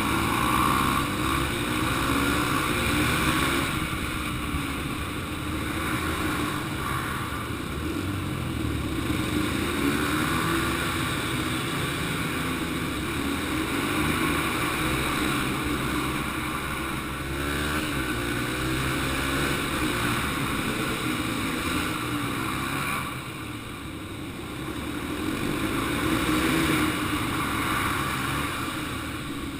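Small single-cylinder four-stroke dirt bike engines (Yamaha TT-R 125) running hard around a dirt track, the revs rising and falling repeatedly as the throttle is worked. The engine eases off about 23 seconds in and builds again a few seconds later.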